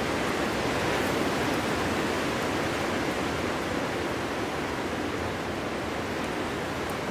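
Steady winter wind blowing through a forest, a dense, even rush without distinct gusts, easing slightly near the end.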